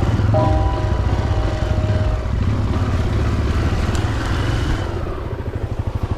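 Honda XR250 Baja's air-cooled single-cylinder four-stroke engine running, settling about five seconds in to an idle with an even, rapid beat of firing strokes.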